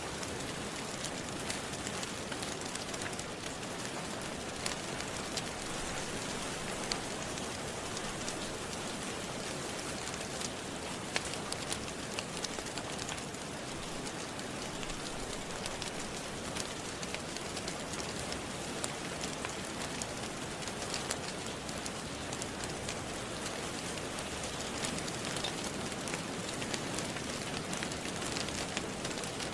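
Steady rain mixed with a crackling wood fire: an even rain hiss with scattered sharp crackles.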